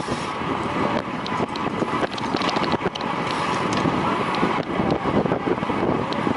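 Wind rushing over a racing cyclist's camera microphone at speed, a steady loud rush with scattered light clicks.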